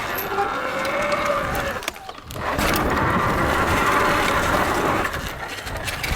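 Surron Light Bee electric dirt bike's motor whining over a rushing noise, its pitch rising as it accelerates. The sound drops away briefly about two seconds in, then picks up again.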